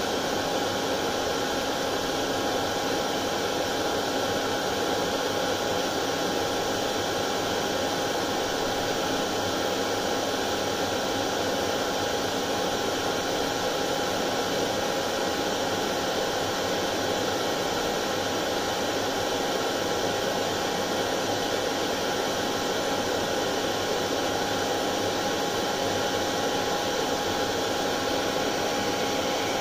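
Hair dryer running steadily: an even rush of blown air with a constant whine from its motor.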